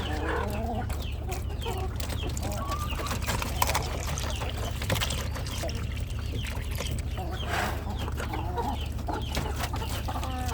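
Backyard poultry clucking and calling, many short overlapping calls, with a few sharp clicks and knocks over a steady low hum.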